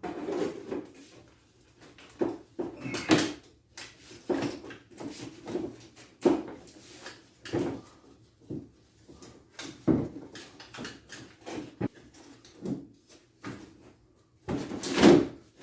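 Irregular knocks, clunks and scrapes as a car's rocker panel is offered up and set in place over a side-exit muffler, trial-fitting it for clearance, with a louder, longer clatter near the end.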